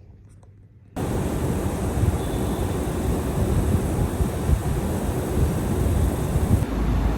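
Wind buffeting the phone microphone in the rain: a loud, rushing rumble that starts suddenly about a second in.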